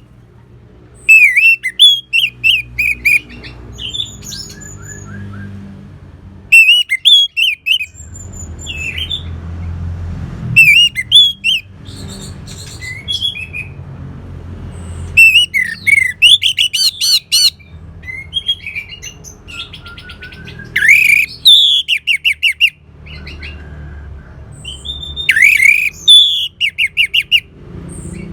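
Orange-headed thrush singing: loud, varied phrases of quick rising and falling notes lasting one to two seconds, repeated every few seconds, over a low steady hum.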